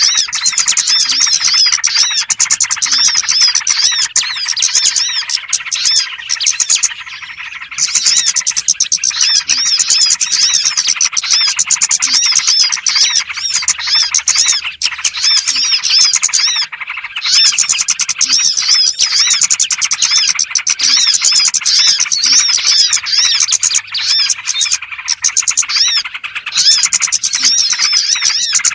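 Dense chorus of small birds chirping rapidly and almost without pause in high, twittering calls, played as a lure recording to attract small birds. A few brief breaks interrupt the chirping.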